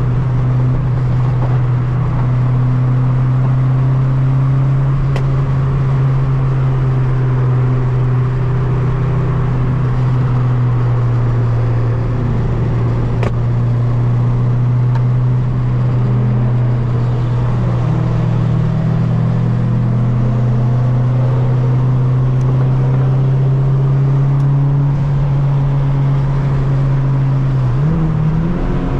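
Turbocharged Honda Civic engine droning at a steady pitch while cruising at constant speed. Near the end the pitch steps up as the revs rise.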